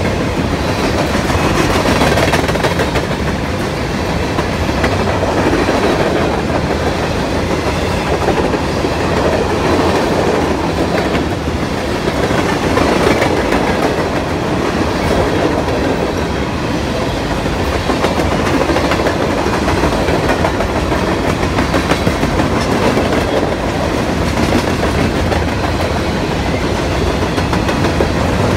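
Covered hopper cars of a fast freight grain train rolling past: a steady, loud rumble of steel wheels on rail with clickety-clack over the joints.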